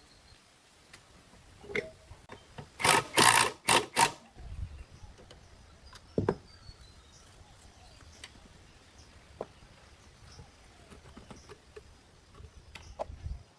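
A quick cluster of four or five loud knocks or scrapes about three seconds in, then a few scattered light clicks, like tools and parts being handled at a workbench.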